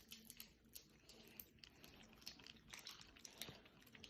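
A cat eating: faint, irregular small clicks and crunches of chewing.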